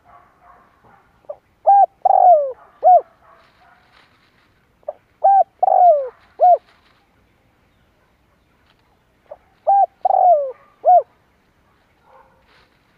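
Spotted dove cooing: three phrases of about four notes each, one roughly every four seconds, each with a longer note that slides down in pitch.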